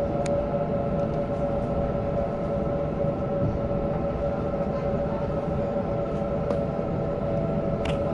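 Electric suburban passenger train running at steady speed, heard from inside the carriage: a continuous rumble with a steady hum of several tones, and a couple of brief sharp clicks from the wheels or rails.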